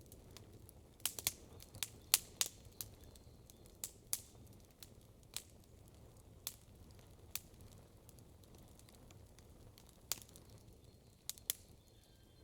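Wood campfire crackling, with irregular sharp pops and snaps over a low, steady rumble. The pops come thickest in the first few seconds, then more sparsely, with a last pair near the end.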